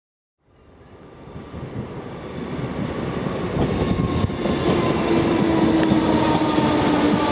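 InterCity 225 electric express train, Mk4 coaches with a driving cab leading, approaching on the main line. Its wheel and track noise fades in from silence and grows louder as it nears, with a steady hum in it over the last couple of seconds.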